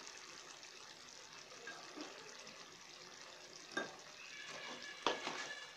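Chicken curry faintly sizzling in a kadhai as it is stirred, with two light knocks about four and five seconds in.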